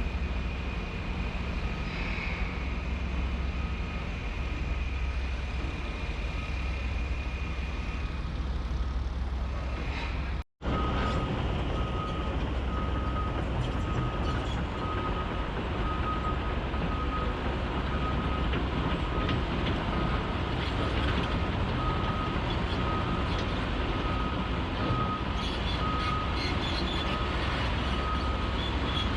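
Diesel engines of heavy construction machinery running with a steady rumble, with a steady high whine in the first part. After an abrupt cut about ten seconds in, a machine's reversing alarm beeps at about one beep a second over the engine noise.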